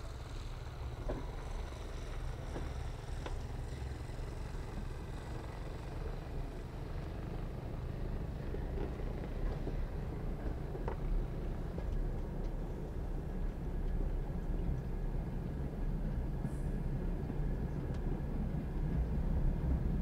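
Passenger train carriage rolling slowly over the rails: a steady low rumble with a few sharp wheel clicks, growing gradually louder as the train gathers speed.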